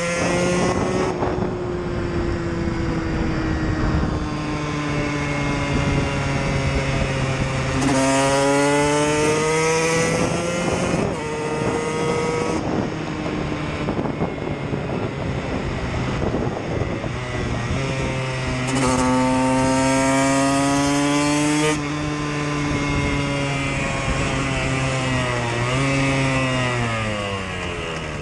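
KTM EXC single-cylinder motorcycle engines running under way, revving up and easing off through the gears, the pitch climbing steeply near 8 and 19 seconds in and dropping between. At times two engines are heard at once.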